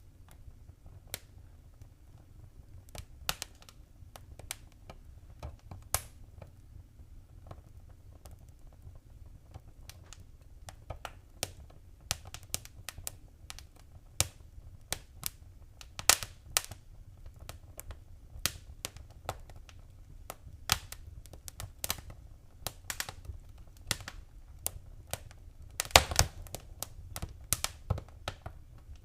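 Wood fire crackling in a fireplace: irregular sharp pops and snaps over a low steady rumble, sparse at first, then coming more often, with a quick burst of loud pops near the end.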